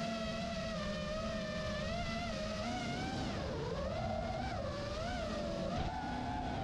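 Electric motor and propeller of a large radio-controlled foam model airplane whining in flight, the pitch wavering up and down as it flies around and the throttle changes, over low wind rumble.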